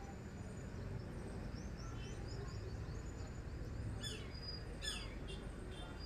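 Small birds chirping: a run of quick faint high chirps, then two sharp falling calls about a second apart in the second half, over steady low outdoor background noise.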